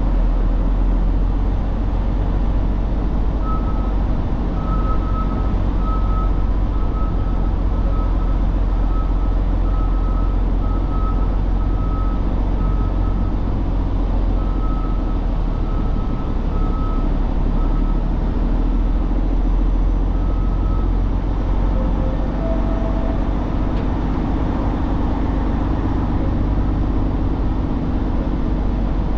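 Heavy truck's diesel engine running with a steady low rumble. A back-up alarm beeps about twice a second from a few seconds in until about two-thirds of the way through.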